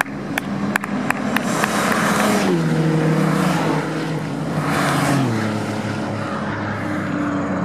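Touring race car engines running hard on the circuit. The engine note drops in steps twice, about two and a half and five seconds in, as they brake and shift down. Sharp cracks come in quick succession in the first two seconds.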